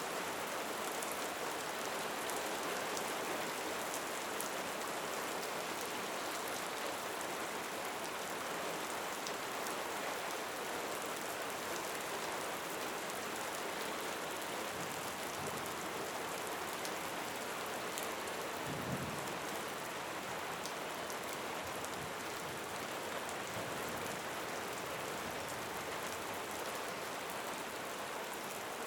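Steady rain falling, with scattered individual drops ticking over the even hiss; one brief low thud about two-thirds of the way through.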